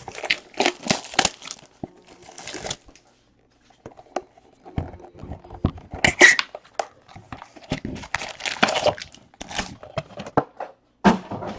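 Plastic trading-card pack wrappers being torn open and crinkled, with cards rustling, in several short bursts of crackling.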